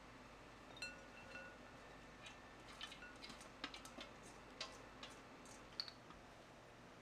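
Faint, scattered clinks and taps of kitchen utensils against dishes, a dozen or so irregular light strikes. One near the start rings briefly with a clear tone, like metal or glass.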